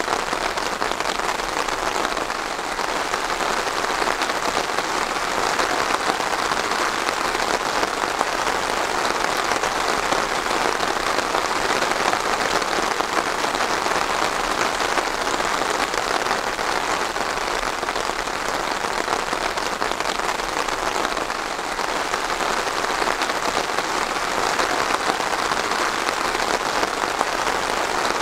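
Steady rain falling on a hard surface, a dense, even patter of drops.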